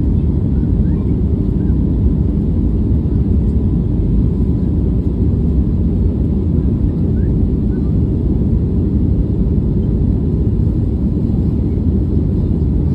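Steady low rumble inside a jet airliner's cabin: engine and airflow noise, even throughout, with a faint thin hum above it.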